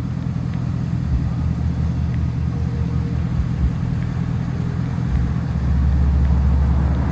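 Pickup truck's engine idling with a steady low hum, the rumble growing stronger near the end.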